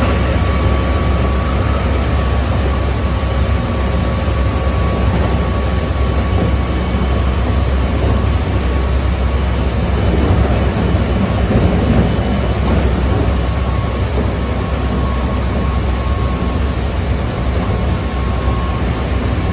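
Keikyu 600 series electric train running at steady speed, heard from inside the car: a constant low rumble of wheels on rail with a faint steady whine from the traction motors.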